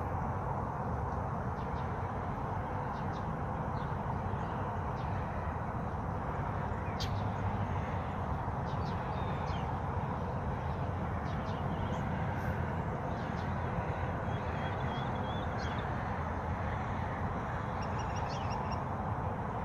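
Small songbirds chirping and trilling faintly now and then over a steady rushing background noise.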